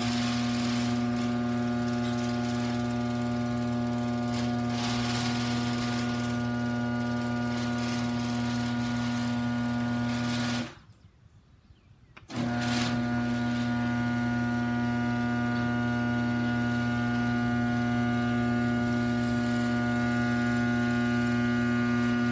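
Genie garage door opener running with a loud, steady buzzing hum and vibration. About eleven seconds in, it stops for a second and a half at the end of its travel, then starts again.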